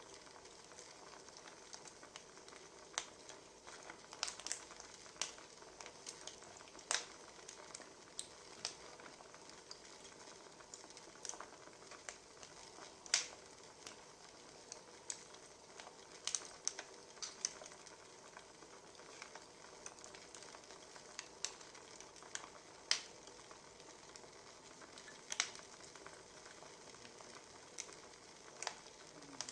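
Wood fire crackling: a faint steady hiss with irregular sharp pops and snaps from the burning logs.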